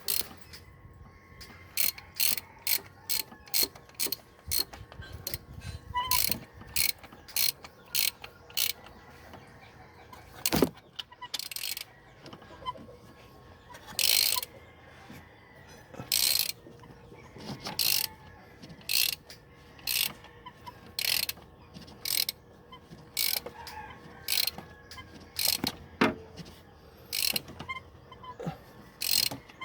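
Hand ratchet wrench clicking in repeated short strokes, about two clicks a second with brief pauses, as bolts are worked on the straight-six engine during the top overhaul. One louder knock comes about a third of the way in.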